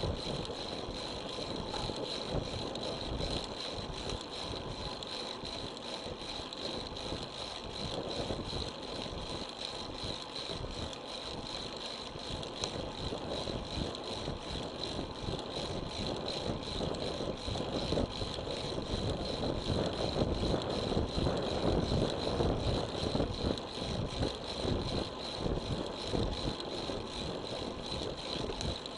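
Road bicycle being ridden, with wind rushing over the action camera's microphone and the bike rattling over the road surface. A thin, steady high whine sits on top, and the noise grows a little louder past the middle.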